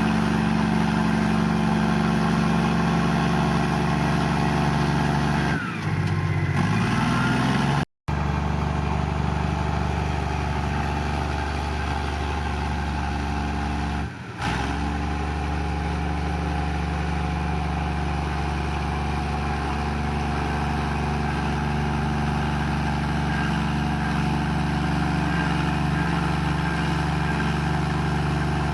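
Komatsu bulldozer's diesel engine running steadily as it pushes mud, with a brief rise in engine pitch about six seconds in. The sound cuts out for an instant about eight seconds in.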